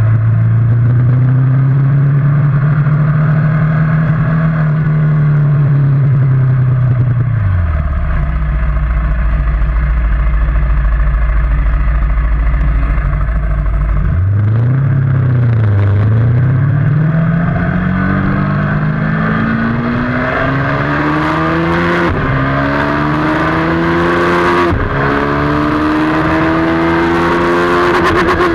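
Motorcycle engine heard from on board at track speed over rushing wind. The engine pitch holds, falls low and stays there for several seconds, then climbs hard through the gears, with the pitch dropping at each of three upshifts near the end.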